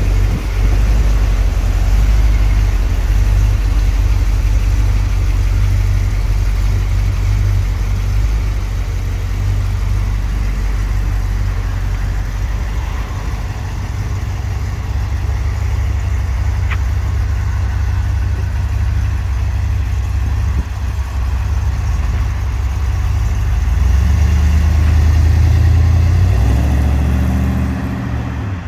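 1969 Corvette's 427 big-block V8 running as the car rolls out at low speed, a deep steady rumble. About 24 seconds in it gets louder with the revs climbing in steps as the car pulls away, then fades just at the end.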